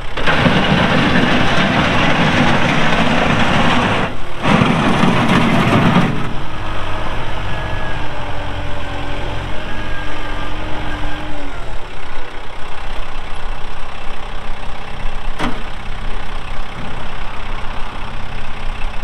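Kubota M7060 tractor's four-cylinder diesel engine running hard and loud for about six seconds, with a short dip about four seconds in. It then drops back to a steady, lower run with a faint whine, and there is a single click near the end.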